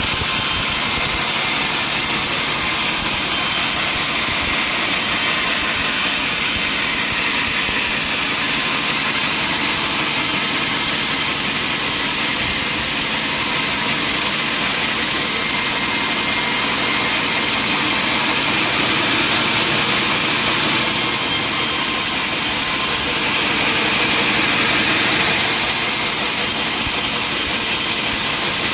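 Sawmill saw and machinery running steadily, a loud even high-pitched noise that does not let up.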